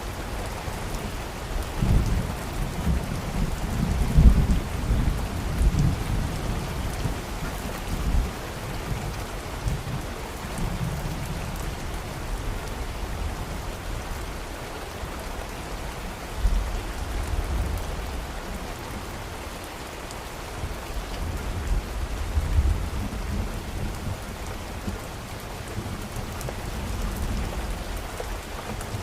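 Steady rain with low rolling thunder rumbles. The rumbles are strongest through the first several seconds and come again about halfway through and a little later.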